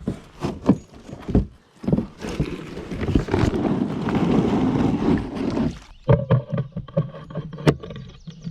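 A kayak being handled at the water's edge: scattered knocks against the hull, then a steady scraping lasting about three and a half seconds, then more knocking near the end.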